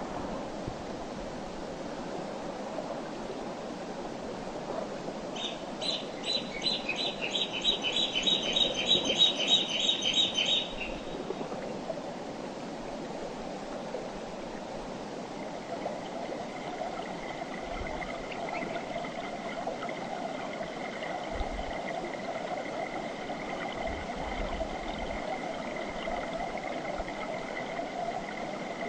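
Mountain river flowing, a steady rush of water throughout. A few seconds in, a bird sings a fast run of about twenty repeated high notes lasting about five seconds. About halfway through, a steady high tone comes in and holds.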